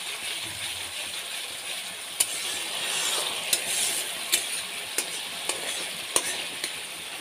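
Spice paste frying in oil in a pan, sizzling steadily while a spatula stirs it, with about six sharp clicks of the spatula against the pan. The masala is nearly done, the oil separating out of it.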